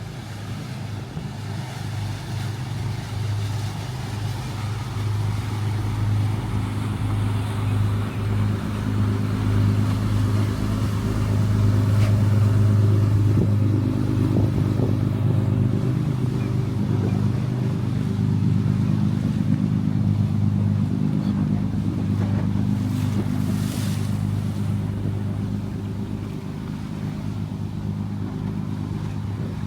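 A motorboat's engines running with a deep, steady drone as the boat passes through the inlet, growing louder to a peak about twelve seconds in and then slowly fading.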